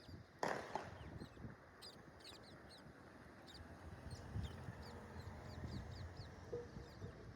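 Parakeets chirping, with many short high calls repeated throughout. There is a brief harsh burst about half a second in, and a low rumble underneath.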